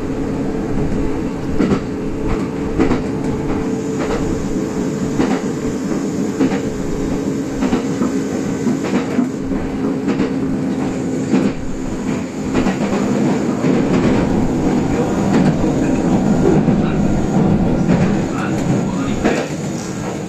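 Kintetsu express electric train running at speed, heard from inside the front car: a steady running hum with held motor tones, and irregular clicks and knocks from the wheels over the rail joints, growing a little louder about two-thirds of the way through.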